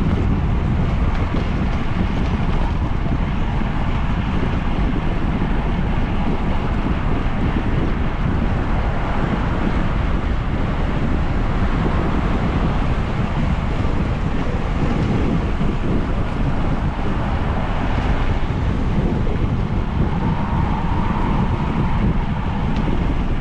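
Steady wind noise over the microphone while riding a bicycle at speed.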